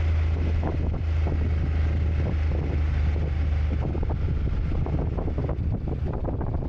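Honda NC750X parallel-twin engine running under way with wind buffeting the microphone. A steady low engine hum eases about four seconds in.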